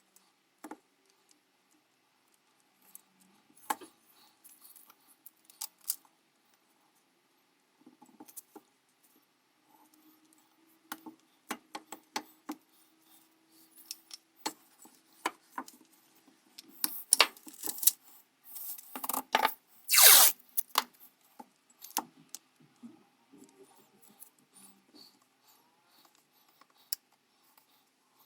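Small hard parts clicking and clinking as they are handled, in scattered taps, with a few louder rasping strokes about two-thirds of the way through.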